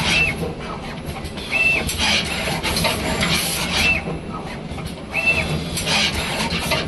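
Automatic wire soldering machine running its cycle: repeated bursts of hiss and mechanical rubbing every second or two over a steady low hum, with four short, high beeps.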